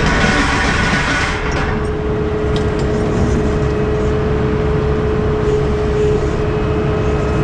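Heavy diesel truck running steadily: a low rumble with a steady whine over it, and a hissing noise that dies away in the first second and a half.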